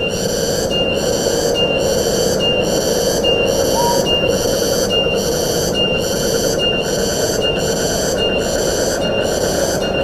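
Wind rushing steadily through forest trees. Over it, a high pulsing call repeats evenly nearly twice a second, and a short chirp sounds once about four seconds in.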